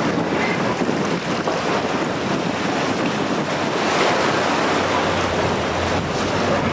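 Strong wind buffeting the microphone over surf, a steady loud rush; a low hum joins about five seconds in.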